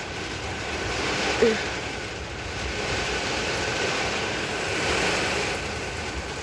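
Strong thunderstorm wind gusting, with a steady rushing noise that swells about a second in and again around five seconds.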